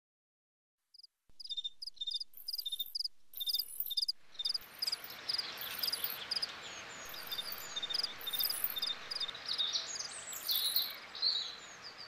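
Small birds chirping and calling, short high chirps repeating several times a second with quick downward-gliding notes. From about four seconds in, a steady woodland hiss sits underneath.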